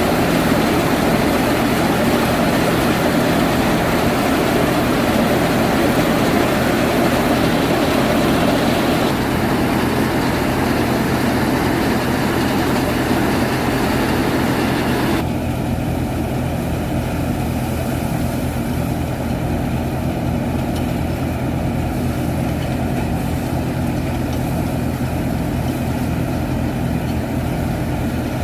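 Farmtrac 45 tractor's diesel engine running steadily with a multi-crop thresher working, a dense rushing noise over the engine's steady hum. About halfway through, the higher part of the noise drops away suddenly while the engine carries on.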